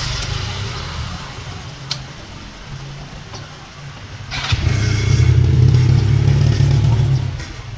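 Vehicle engine running with a rough low rumble. It grows much louder about halfway through and eases off again near the end. A single sharp click comes about two seconds in.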